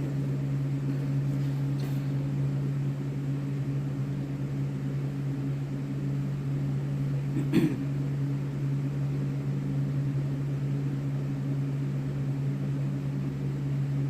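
A steady low background hum, like a running appliance or fan, with a single brief click or tap about halfway through.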